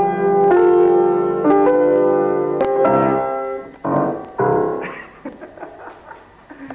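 Piano or keyboard playing sustained chords, a new chord struck about once a second; it thins out and turns quiet about two-thirds of the way through.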